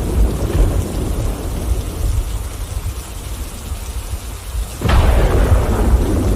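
Thunderstorm with rain: thunder rumbling and slowly dying away, then a sudden sharp thunderclap about five seconds in that rolls on into a louder rumble.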